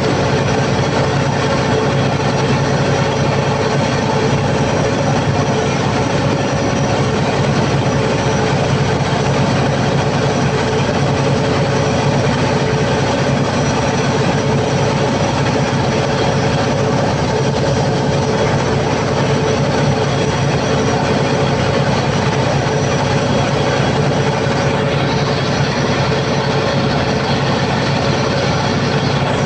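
Cummins KTA50 V16 turbo-diesel generator engine running loud and steady under a load test after a general overhaul.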